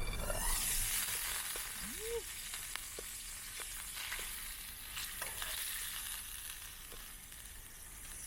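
Hamburger patties sizzling in a hot pan: a steady high frying hiss that starts about half a second in and slowly fades, with a few light clicks.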